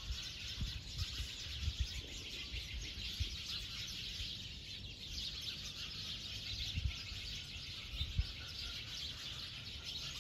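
Outdoor ambience of birds chirping in the trees over a steady hiss, with a few faint low thumps.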